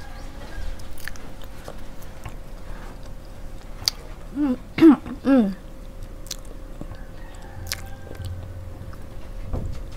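Close-miked chewing of a soft marshmallow: wet mouth sounds with a few small clicks. About four and a half seconds in come a few short hummed vocal sounds.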